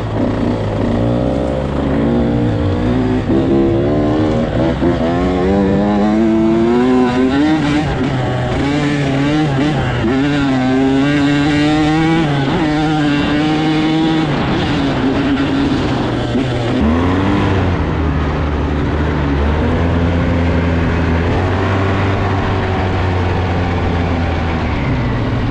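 Small off-road engines running, a dirt bike and a four-wheeler. One engine revs up and drops back again and again, its pitch climbing and falling, over a lower, steadier engine note.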